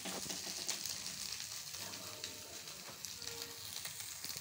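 Soya chunks sizzling in hot oil in a kadhai as they are roasted toward brown, with a steel spatula scraping and stirring them through the pan.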